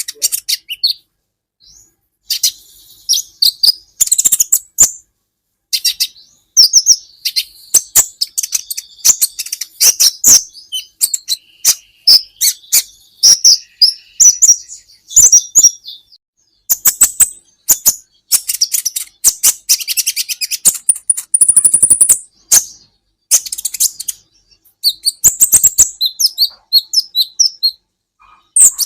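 Kolibri ninja sunbird (konin) singing: rapid, high-pitched chirps and trills in bursts with short pauses between them.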